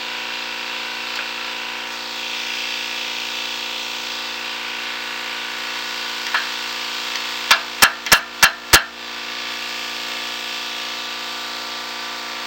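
Air compressor running steadily as it builds pressure back up after the impact wrench has drained it. A little past halfway come five sharp knocks about a third of a second apart, the loudest sounds here.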